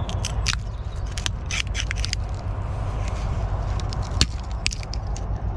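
Burnt, bubbled paint being scraped and picked off a steel boat deck: irregular crackling scrapes and small ticks over a steady low rumble.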